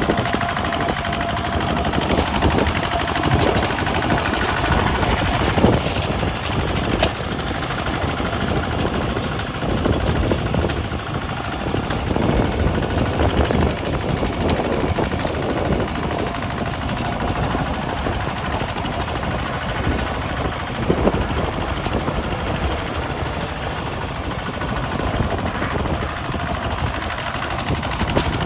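Kubota RT single-cylinder diesel engine of a converted walking tractor running steadily under load while plowing a field, a loud, rapid mechanical knock.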